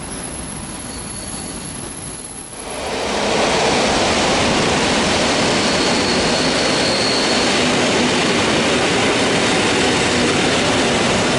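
EN57 electric multiple unit running past close alongside the platform: after a few seconds of its approach, the sound jumps to a loud, steady rush of wheels on rail as the cars go by, with a faint high whine briefly in the middle.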